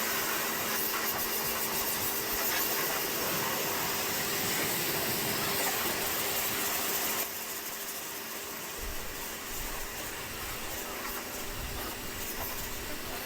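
Pressure washer spraying, a steady hiss over a faint motor hum, which drops in level about seven seconds in.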